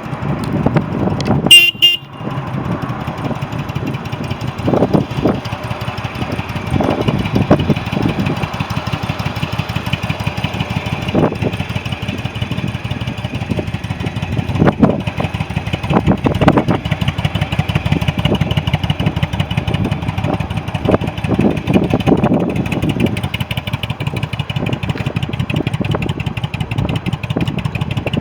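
2002 Yamaha V-Star's V-twin engine running at idle, with several brief louder surges. A short horn beep sounds about one and a half seconds in.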